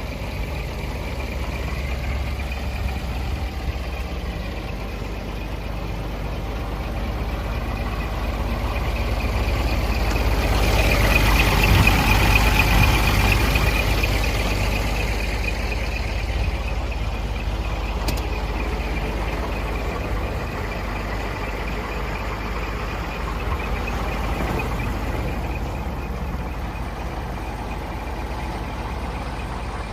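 Scania R420 truck's 12-litre straight-six DC12 diesel engine running at idle, steady and low, growing louder for a few seconds around the middle before settling back.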